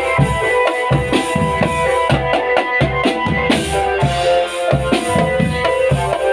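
Marching drum band playing: bass drums and snare drums beat a busy rhythm under a melody of held notes. The drum strokes thin out for about a second and a half around the middle, while the melody carries on.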